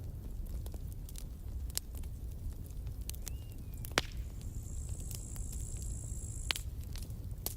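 Campfire crackling: scattered sharp pops over a low steady rumble, with one louder pop about four seconds in and a thin high whistle lasting about two seconds just after it.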